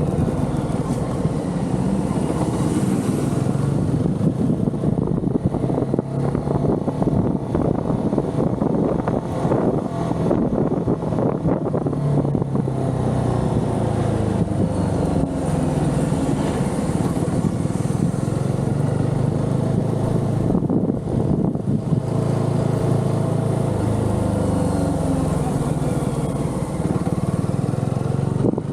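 Motorcycle engine heard from the bike while riding, its revs rising and falling again and again as it speeds up and slows.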